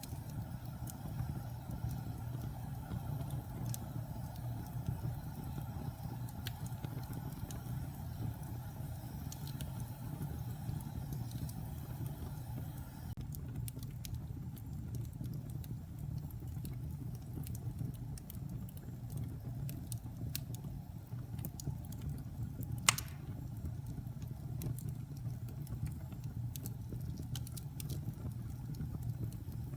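Wood fire burning in a fireplace: a steady low rumble of flames with scattered small crackles, and one sharp, loud pop about two-thirds of the way through.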